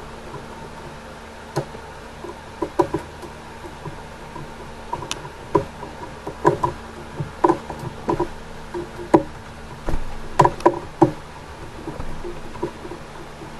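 Irregular knocks, taps and clicks of a screwdriver and small screws being worked by hand as a voltage regulator module is screwed onto a model railway baseboard on spacers.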